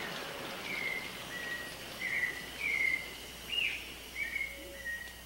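A rainforest bird calling: a string of short whistled notes, about two a second, some sliding up or down in pitch, over a soft hiss of rain that fades out in the first second or so.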